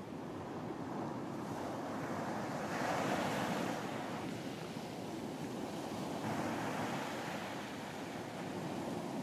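Sea waves washing onto a beach, a steady rushing that swells about three seconds in and again near seven seconds as waves break.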